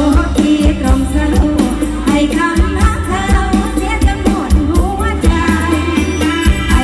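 Isan mor lam song: a sung melody over a band with a steady drum beat and bass.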